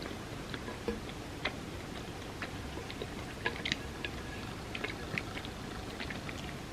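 Close-miked eating: scattered, irregular soft clicks and smacks of chewing chocolate truffles, over a steady background hiss.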